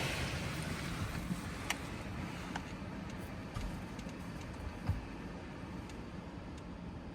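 Touchless automatic car wash heard from inside the car: the water spray dies away in the first second or so. What remains is a low steady hum from the wash machinery and scattered drips and ticks on the car body.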